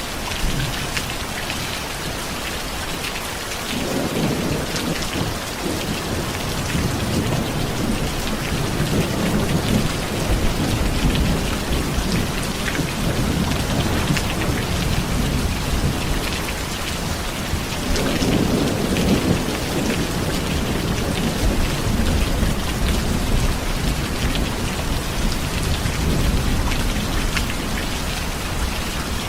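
Steady heavy rain, with low rolling thunder that builds about four seconds in and again about eighteen seconds in, each roll lasting several seconds.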